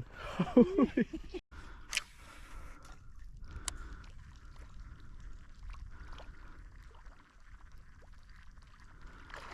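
Creek water trickling and splashing, with two sharp clicks and a brief voice sound at the start.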